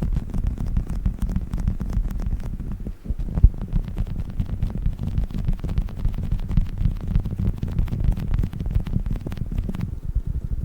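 Squishy dinosaur toy being squeezed and handled, a dense run of soft squishes and small crackling clicks over a low rumble; the crackling thins out near the end.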